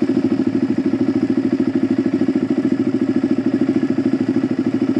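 Suzuki DR-Z400 single-cylinder dirt bike engine idling steadily, with an even, rapid pulse.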